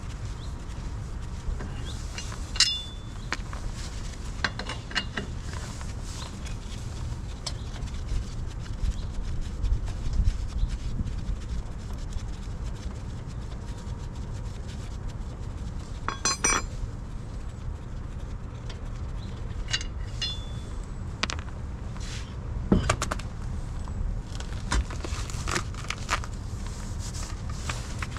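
Scattered metallic clinks and knocks, some briefly ringing, over a steady low rumble.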